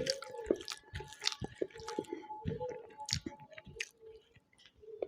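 A person chewing food close to the microphone, with irregular wet smacking and crunching sounds.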